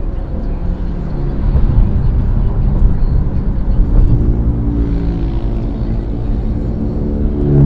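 Vehicle engines and road rumble on a highway drive, with steady engine tones that shift in pitch. An engine grows louder near the end.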